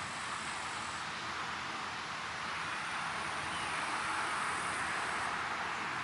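Outdoor nature ambience of wind and water: an even, steady rushing hiss that swells slightly past the middle.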